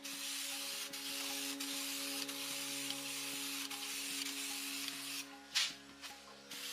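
Steady hissing noise, like a spray, that stops about five seconds in, followed by a short louder burst. A low steady hum runs underneath.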